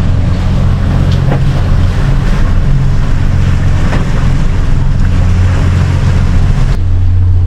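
Sailing catamaran's engine running steadily under way, a constant low drone mixed with wind and water noise.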